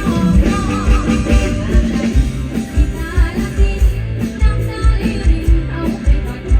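Lam phloen band music with a steady quick bass-drum beat and a singer's voice over electric instruments.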